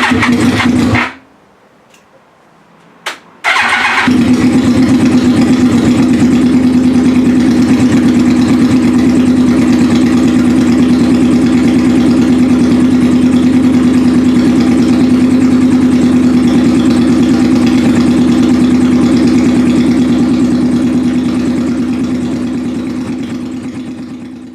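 Yamaha YZF-R1 inline-four engine running, freshly reassembled and on its first start. It runs for about a second and stops, then restarts about four seconds in and runs steadily, fading out near the end.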